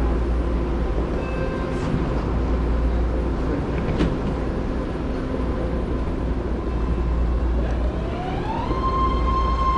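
Wind noise on the microphone and road noise while riding. About eight seconds in, a tone rises in pitch and then holds steady.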